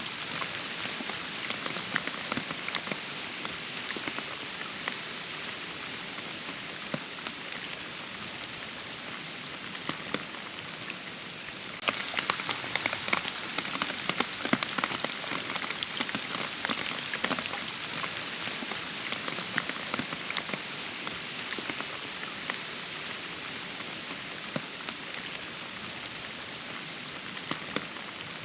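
Steady rain falling, a dense hiss full of separate close drop hits; it turns suddenly louder about twelve seconds in.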